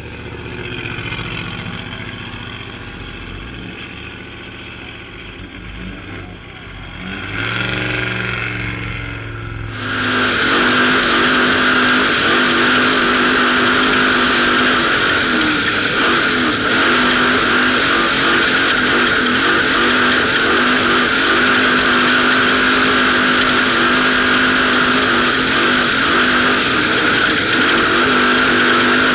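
Trophy truck engine racing. For the first ten seconds it is quieter and swells once as it goes by. Then it cuts suddenly to a loud, steady engine note at high speed.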